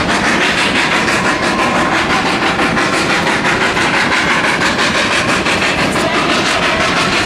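Narrow-gauge coal-fired steam train running, heard from aboard, with the locomotive's exhaust beating fast and even, about five or six beats a second, over the steady rolling noise of the cars.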